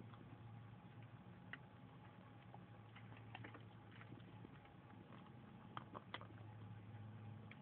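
Near silence: a faint steady hum with a few soft, scattered clicks.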